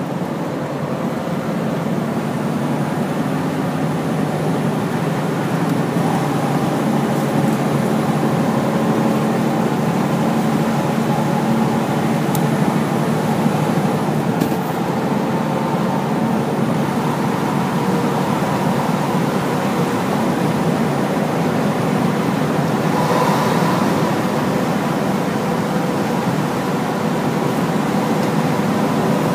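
Large Hino truck driving at steady speed: its diesel engine and road noise run on with a steady whine.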